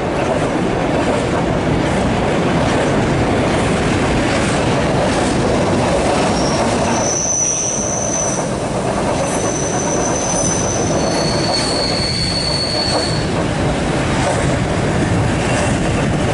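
A moving train running steadily on the rails, with a dense rumble of wheels. In the middle stretch, high-pitched wheel squeals come and go several times.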